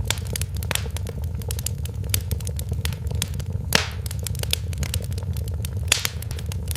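Wood fire crackling in a fireplace: frequent sharp pops and snaps, a couple of them louder, over a steady low rumble.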